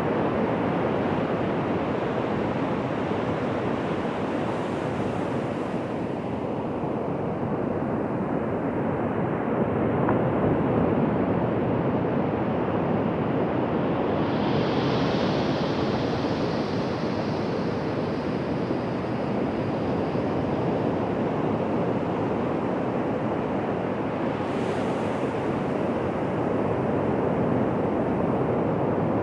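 Ocean surf breaking and washing on a beach: a steady, dense rush of water with gentle swells in loudness and a brighter hiss for several seconds about halfway through.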